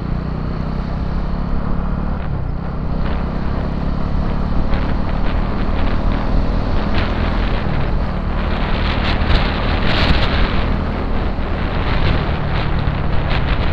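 Motorcycle engine running steadily while riding, under heavy wind buffeting on the microphone that grows louder about eight seconds in.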